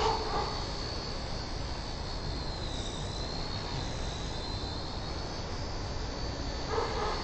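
XK K100 micro RC helicopter's motor and rotor whining in flight, the pitch dipping briefly about three seconds in and coming back up, over wind buffeting the microphone.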